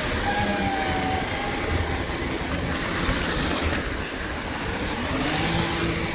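Automated-arm rubbish truck running, with a steady engine noise and whining tones that dip early on and rise again from about four seconds in.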